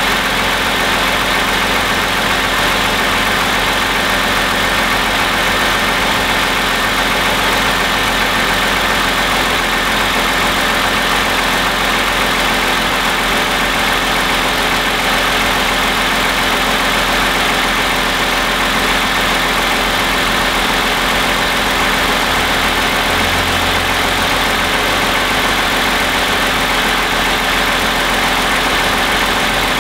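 Toyota 3.5-litre V6 (2GR-FE) of a 2010 Camry with about 88,000 miles, idling steadily, heard from over the open engine bay. The owner takes it for a normal, healthy-sounding engine.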